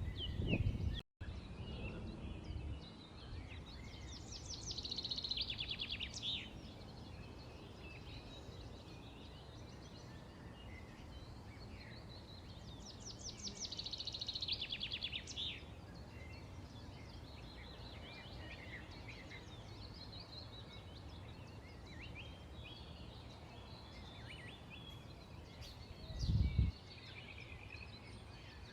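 Small birds chirping and calling over a steady low background hum, with two longer rapid trills about 4 and 13 seconds in. The sound cuts out for an instant about a second in, and a brief low thump comes near the end.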